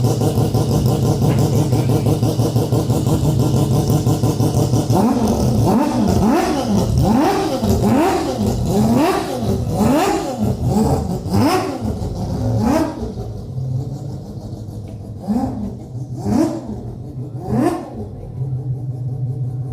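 An engine idling steadily, then revved in quick repeated throttle blips from about five seconds in, the revs rising and falling about once a second. After about thirteen seconds it drops back to a lower idle with a few single blips.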